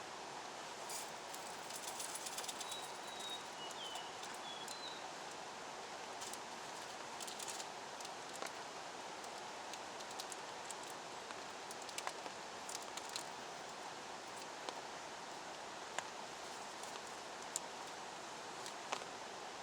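Steady rain hiss with scattered sharp drip ticks, and a bird chirping briefly a few seconds in.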